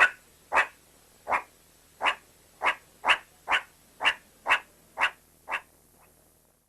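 An animal giving about a dozen short calls, roughly two a second, which then stop.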